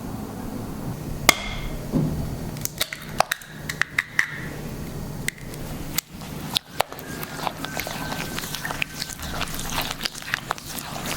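A series of small clicks, taps and knocks of household objects being handled, with one ringing clink a little over a second in.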